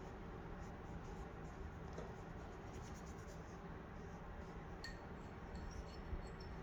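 Faint scratching of paintbrushes stroking over a wooden birdhouse, with a few light taps.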